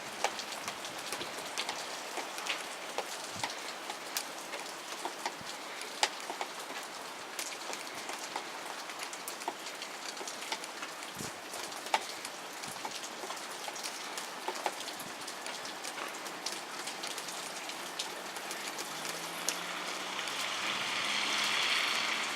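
Steady rain falling, with many sharp drops ticking on a nearby surface throughout; a hiss swells near the end.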